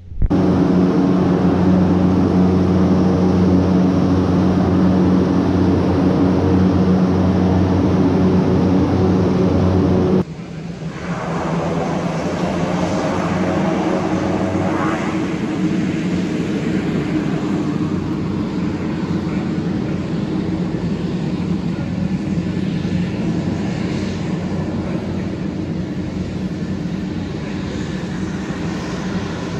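Aircraft engines running: a steady, loud drone for about ten seconds, then a sudden change to an aircraft passing, its pitch sweeping as it goes by.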